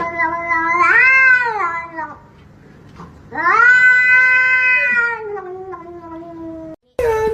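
A cat giving two long, drawn-out yowls. The first rises in pitch about a second in and falls away. The second is held steady before trailing off.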